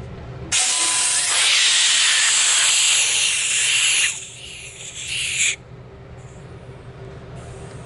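Compressed air hissing out of an air compressor's drain valve: a loud blast for about three and a half seconds, then weaker for about another second and a half before it cuts off suddenly.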